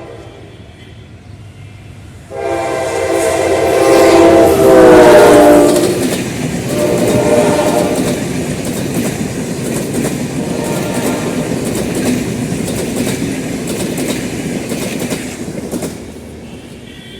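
General Electric diesel locomotive sounding its horn in a long blast beginning about two seconds in, the pitch dropping as it passes, then the rumble and rhythmic wheel clatter of the passenger coaches rolling by, easing off near the end.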